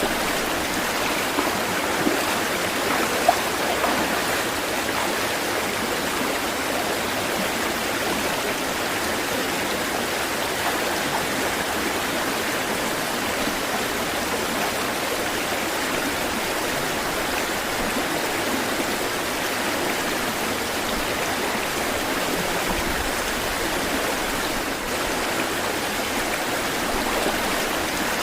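Steady flowing water, an even rushing and babbling without surges, with a few small splashes about two to four seconds in.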